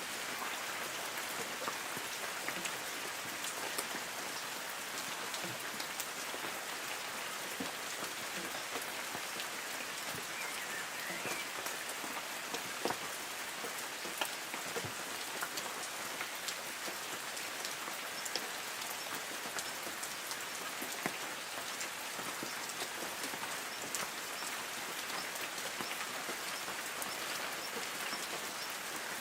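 Light rain falling on forest trees: a steady hiss with many scattered drops ticking, and a few louder single drips around the middle.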